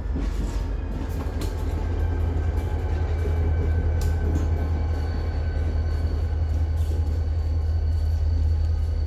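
Diesel locomotive hauling a ballast train, its engine giving a steady low rumble as the train moves, with a few sharp clicks from the cars.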